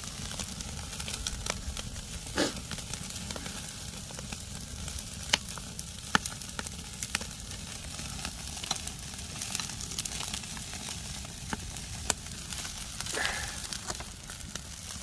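Semi-dried sea bass grilling over a wood fire, its fat sizzling steadily with many small crackles and pops.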